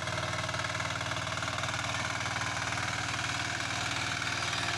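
Power weeder's single-cylinder engine running steadily with an even, fast firing beat while it tills mud.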